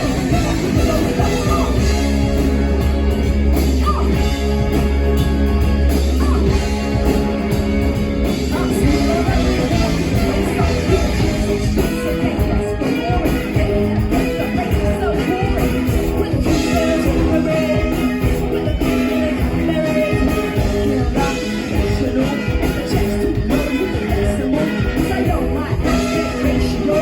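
Live rock band playing a loud, upbeat song with drums, guitar, bass and singing, recorded from the crowd.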